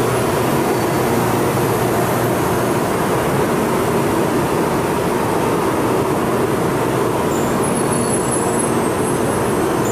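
Train running at a steady speed: an even, unbroken rushing noise with no change in level.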